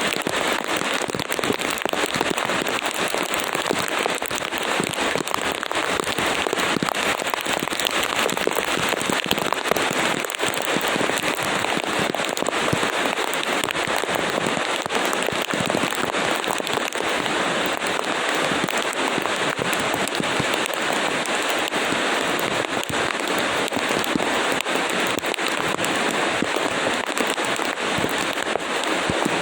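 Steady rain: an even hiss of falling rain with many small drop clicks all through.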